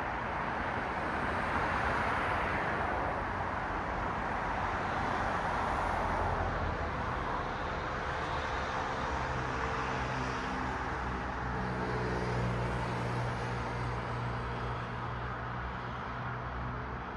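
Road traffic: cars passing, their tyre noise swelling about two seconds in and again around six seconds. From about eight seconds on, a steady low engine hum runs under it.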